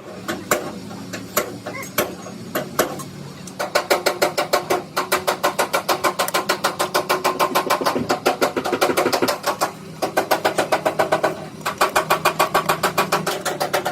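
Hammer striking metal in a workshop. A few single blows come first, then rapid, even blows of several a second, each ringing, with two short pauses.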